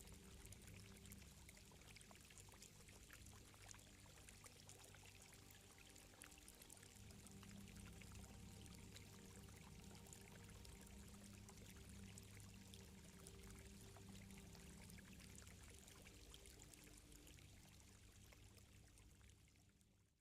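Faint ambience of flowing, trickling water with many small splashy ticks, over a low steady hum, fading out near the end.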